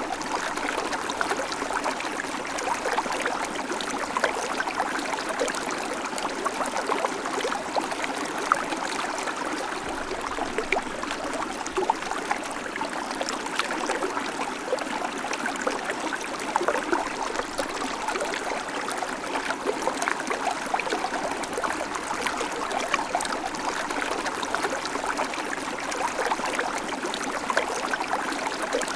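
A shallow creek babbling steadily, water running and splashing over stones in a constant flow with many small splashes.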